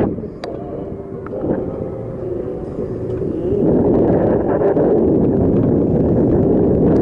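Wind rushing over the microphone of a moving bicycle, with people's voices in the background.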